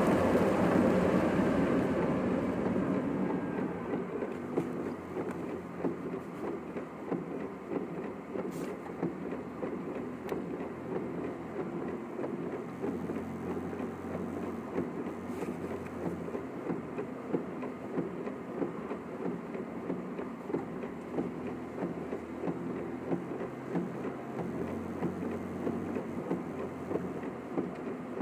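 Road and engine noise inside a moving car's cabin, sped up to double speed. It fades over the first few seconds as the car slows, then holds steady with small, frequent bumps.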